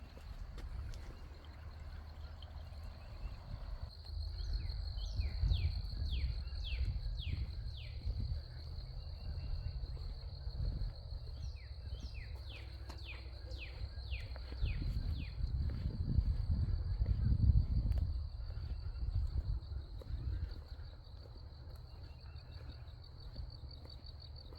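Outdoor trail ambience: a bird sings two runs of quick falling whistled notes, several seconds apart. Under them runs a steady high-pitched drone, with a low rumble that swells and fades.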